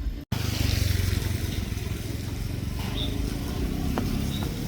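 Motorbike engine running close by, a steady low rumble.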